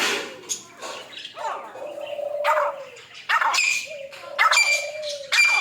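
Caged birds calling: short, sharp calls about once a second over a continuous lower, wavering tone.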